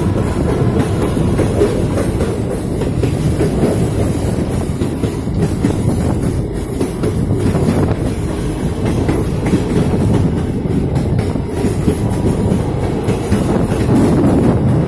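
Train running along the track: a steady loud rumble with scattered clicks of wheels over rail joints.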